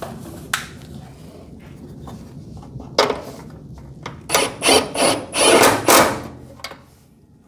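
Hands working on garage door hardware: a light click, a sharp knock about three seconds in, then a quick run of scraping, rubbing strokes.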